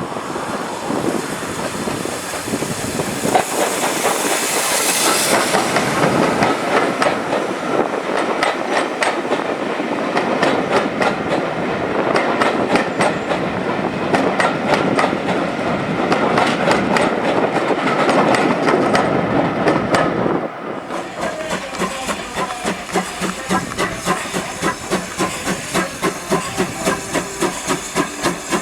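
A train running past, its wheels clicking rapidly and continuously over the rail joints, with a hiss of steam. About two-thirds of the way through the sound cuts off abruptly to a steam locomotive working, with a steady beat of exhaust chuffs about twice a second.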